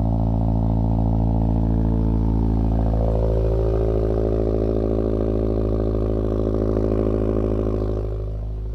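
Subaru BRZ flat-four boxer engine idling steadily just after a cold start, dropping slightly in loudness near the end.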